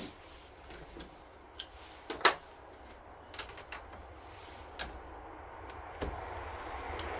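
Scattered light clicks and clunks of hand tools and metal parts being handled while working on a lawn tractor battery, with one sharper knock a little over two seconds in.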